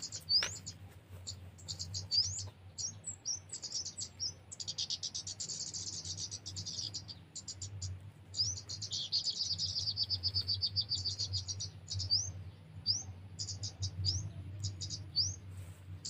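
Small birds calling: short, sharply rising chirps repeated every second or so, with two long, fast, buzzy trills in the middle, over a faint low steady hum.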